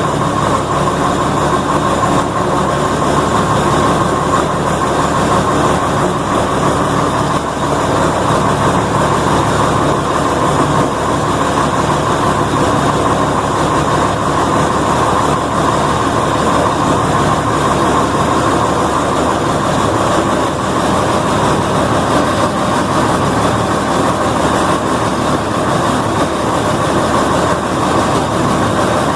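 Old combine's diesel engine running steadily after a cold start.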